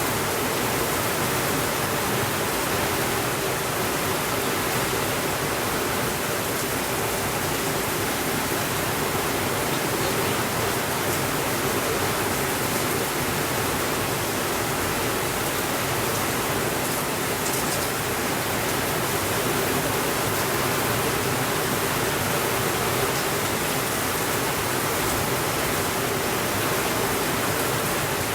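Steady rainfall making an even hiss with no thunder, with a few faint ticks along the way.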